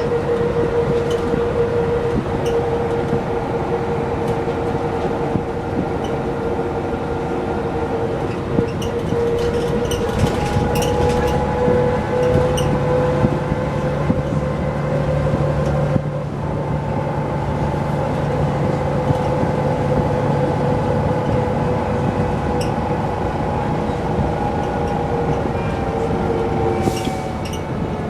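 Mercedes-Benz O405 N² city bus with a Voith automatic gearbox, heard from inside while driving: steady whining tones from the engine and driveline that slowly rise and fall in pitch, with light rattles from the body. A deeper hum joins about twelve seconds in and fades out a few seconds before the end.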